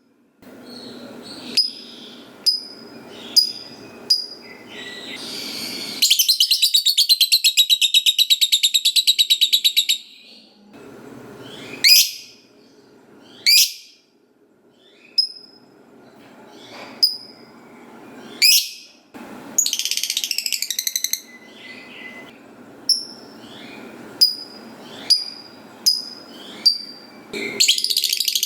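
Lovebird calling: a string of sharp single chirps, then about six seconds in a long, fast rattling trill (the 'ngekek') lasting about four seconds. Loud rising squeaks follow, a shorter trill around twenty seconds in, and another trill starting near the end.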